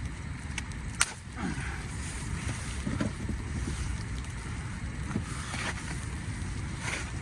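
Wind rumbling steadily on the microphone in a snow storm, with a sharp click about a second in and a few softer knocks and clicks later.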